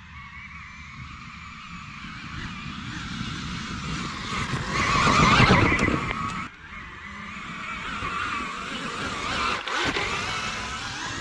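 2021 KTM Freeride E-XC electric dirt bike riding hard, its electric motor whining up and down with the throttle over tyre and dirt noise. Loudest about five and a half seconds in, it drops off suddenly a second later, then builds again.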